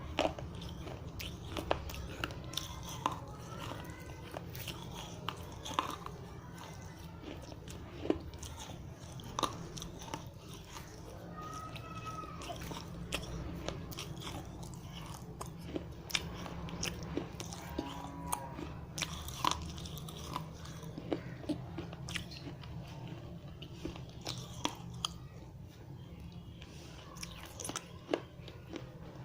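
Dry clay diya pieces being bitten and chewed in the mouth: irregular sharp cracks and crunches, a few a second, over a steady low hum.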